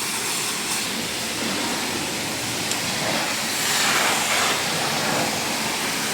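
Steady hissing spray of a car-wash pressure washer, swelling louder for a moment a little past the middle.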